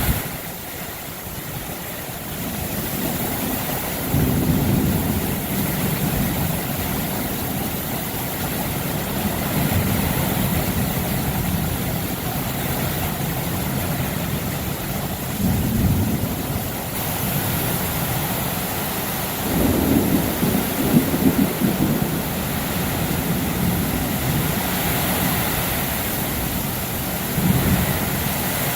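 Heavy rain falling steadily in a thunderstorm, with several low rumbles of thunder swelling and fading; the loudest comes about two-thirds of the way through.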